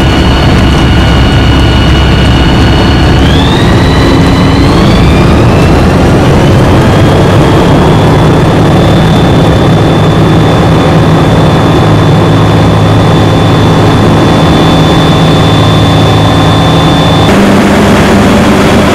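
Comco Ikarus C42 ultralight's engine and propeller running loud, as heard inside the aircraft. About three seconds in, the pitch rises smoothly over a few seconds as power comes up, then holds steady.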